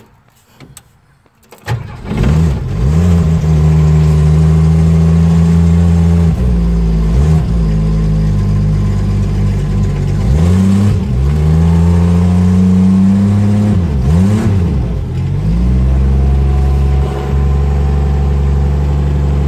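1961 Mercury Comet engine cold-starting on the choke: it catches about two seconds in, is revved up and down three times, then settles into a steady idle near the end.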